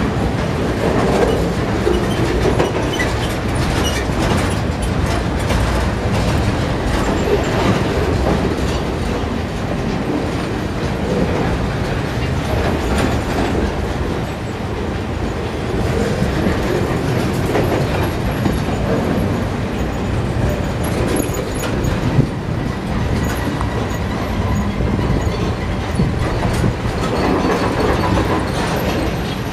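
Loaded railroad flatcars rolling past close by: a steady rumble of steel wheels with a running clickety-clack as they pass over the rail, and one sharp knock about 22 seconds in.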